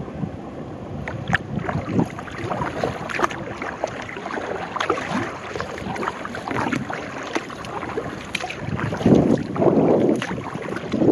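Kayak paddle strokes: water splashing and dripping off the blades in a run of short splashes, with wind rumbling on the microphone about nine seconds in.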